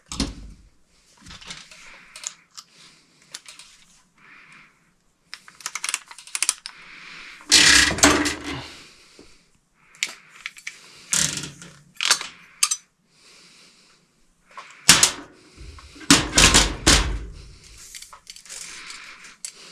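Irregular knocks, clicks and metallic rattles of tools and electrical hardware being handled during wiring work, with a few heavier thumps about eight, eleven and fifteen to seventeen seconds in.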